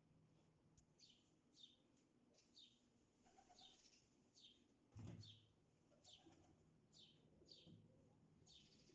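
Near silence with a faint bird chirping over and over in short, falling chirps, about one or two a second. A soft low thump comes about five seconds in.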